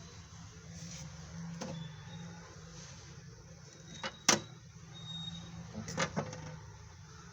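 A few sharp knocks and clicks from handling an LG mini refrigerator, the loudest about four seconds in and a quick pair near six seconds, over a low steady hum.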